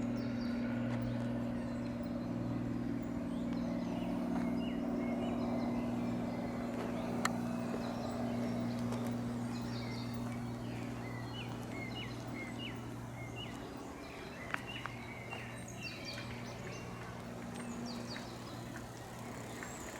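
A distant engine's steady low drone slowly fades away. Small birds chirp repeatedly over it, more and more through the second half.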